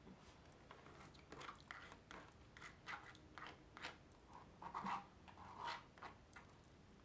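Close-miked chewing of crunchy food, a string of short crunches and wet mouth clicks, mixed with small clicks and scrapes of a utensil in a plastic takeout bowl.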